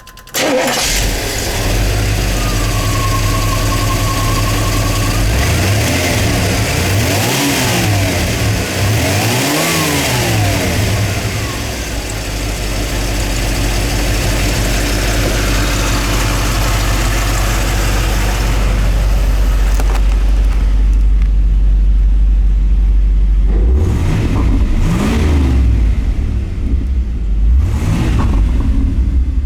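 1987 Trans Am's 305 (5.0 L) LG4 carbureted V8 running at idle and revved up and back down four times: twice near the middle and twice near the end.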